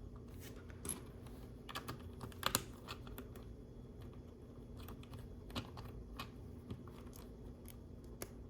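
Plastic LEGO pieces clicking and tapping as they are handled and pressed together, in small irregular clicks with a denser flurry a couple of seconds in.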